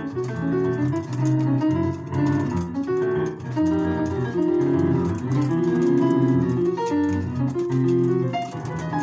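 Piano playing a dense stream of quick notes with several at once, some with a plucked, harp-like ring.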